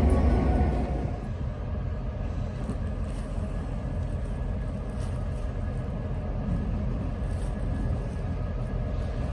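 Diesel locomotive (EMD GP38-3) running with a low rumble. The rumble is louder at first and eases off about a second in, then holds steady.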